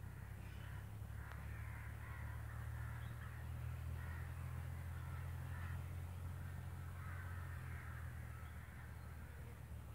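Harsh bird calls at irregular intervals in the background, over a steady low hum.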